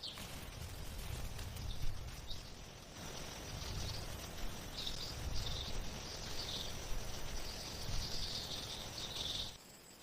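Outdoor ambience: a steady high-pitched chirring that swells in patches, over uneven low rumble from wind on the microphone. It cuts off abruptly shortly before the end.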